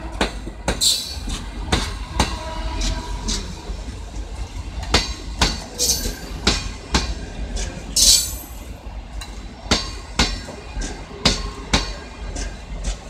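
Passenger coaches rolling past close by. The wheels clack over the rail joints in sharp, irregular knocks over a low rumble, with a few short high wheel squeals, the loudest about eight seconds in.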